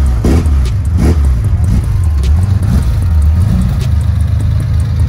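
Chevrolet Caravan engine just after starting: revved twice in quick succession in the first second or so, then settling into a steady idle.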